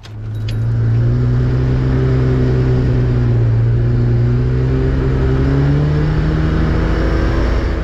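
Lada Zhiguli estate's engine held at high revs as the car drifts on snow, a steady drone that sags slightly then rises in pitch near the end and cuts off suddenly.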